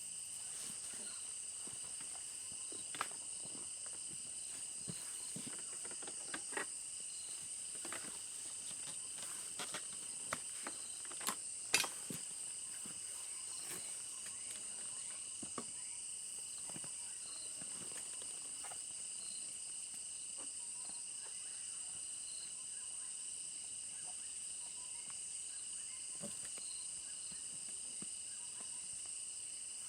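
A chorus of insects trilling steadily on several high pitches. Scattered faint clicks and light knocks sound over it, the sharpest about twelve seconds in.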